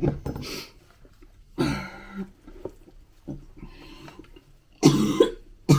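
A person gagging and retching, a few harsh heaves with quiet pauses between them, being sick after eating tinned dog-food pâté.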